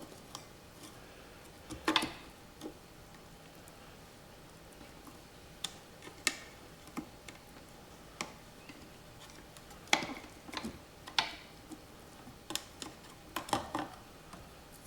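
Scattered light clicks and knocks of kitchen parts and bowls being handled and set down, about a dozen in all, with the grinder motor not running.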